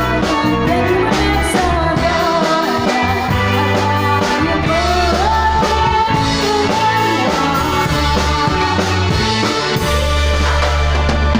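A band playing a song with a lead singer, amplified through a PA sound system: a wavering sung melody over a steady bass line.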